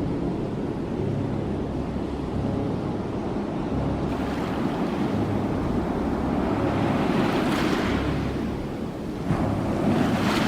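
Ocean waves washing on a shore: a steady low rumble of surf, with two waves surging up in hiss in the second half.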